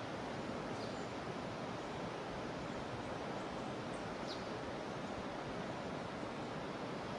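Steady rushing of a jungle river's flowing water, with a few faint, short, high chirps over it.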